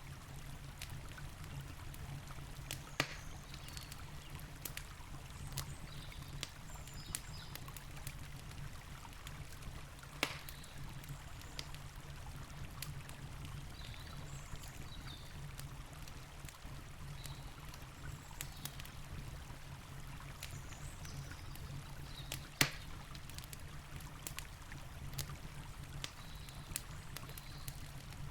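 Wood campfire crackling and popping, with irregular sharp snaps; the loudest come about 3, 10 and 22 seconds in. Under it runs the steady rush of a river.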